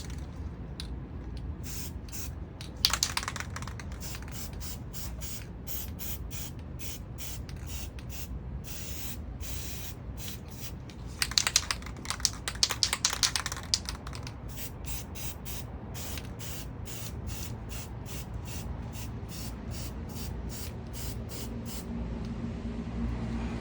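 Aerosol can of copper gasket spray hissing in many short bursts, with two longer sprays, one about three seconds in and one from about eleven to fourteen seconds in, as a light coat is laid on the front main seal gasket.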